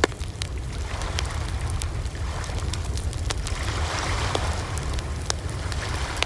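Wood campfire burning: irregular sharp crackles and pops over a steady low rumble, with one loud pop right at the start.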